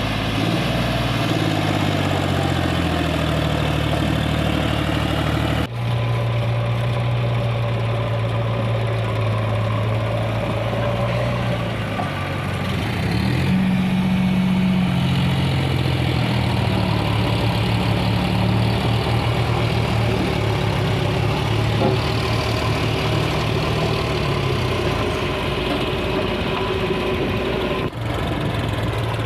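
Heavy diesel engine running, its pitch stepping up and down a few times, with two abrupt breaks where the sound cuts to another stretch of running.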